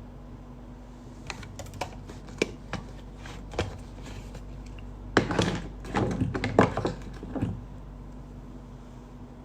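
Irregular clicks and knocks, sparse at first, then a denser, louder cluster from about five to seven and a half seconds in, over a steady low hum.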